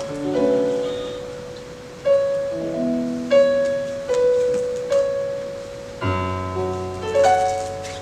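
Haegeum playing long held notes over piano chords in the slow closing phrase of the piece. About six seconds in, a low final piano chord enters under a sustained haegeum note, and both ring out.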